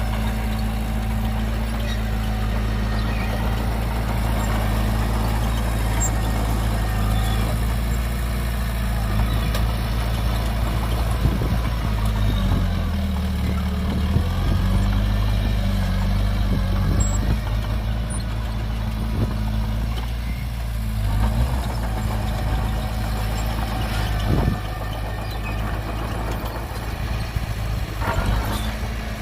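Heavy diesel engines of earthmoving machinery running steadily, with the engine note shifting in pitch about halfway through. A couple of sharp knocks near the end.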